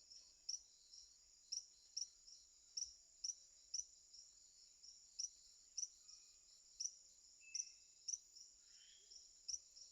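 Faint rainforest insect chorus: a steady high-pitched drone with short chirps repeating about twice a second.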